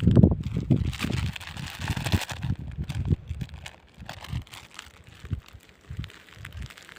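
Plastic groundbait bag rustling and crinkling as it is handled and emptied into a basin, over low gusty rumbles of wind on the microphone.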